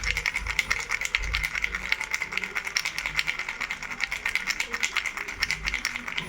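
Baby rattle shaken without pause: a dense run of fast clicks over a steady high ring, with a few dull low thumps.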